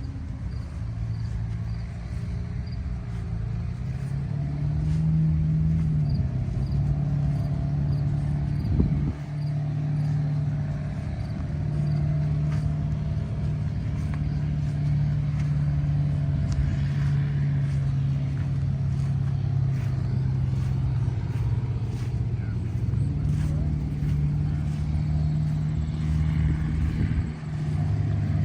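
An engine running steadily, its note strengthening about four seconds in, with brief dips about nine seconds in and near the end.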